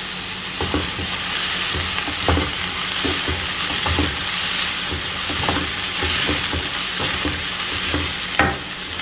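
Onions, shallots and green chillies sizzling in oil in a non-stick pan while a wooden spatula stirs and scrapes them in repeated strokes, with one sharper knock near the end.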